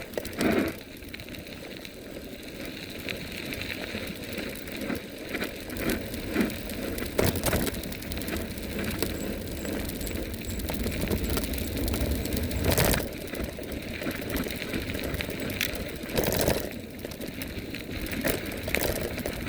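Riding noise on a Vivi 350 W electric bike in motion: a steady rumble of wind and tyres, with a few sharp knocks and rattles from the bike, the loudest about 13 seconds in.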